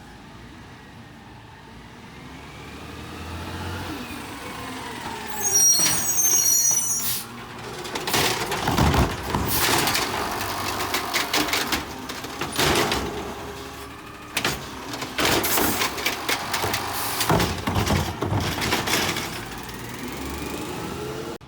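Garbage truck at work: a brief high brake squeal, then a run of loud clanking and banging over its running engine as it collects.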